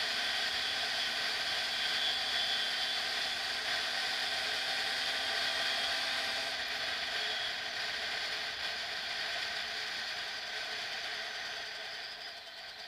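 Derbi X-Treme motorcycle engine running at steady road speed, a high-pitched engine note with rushing noise, heard from a helmet-mounted camera; the note eases off and gets quieter in the second half.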